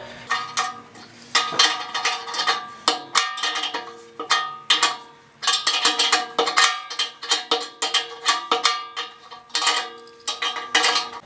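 Repeated metallic clinks and knocks, each with a short ringing tail, from bolts being worked loose by hand inside the metal horn of a Thunderbolt 1000 siren.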